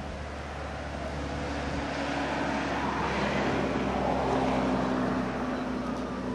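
A road vehicle passing, its noise swelling to a peak about four seconds in and then fading, over a steady low hum.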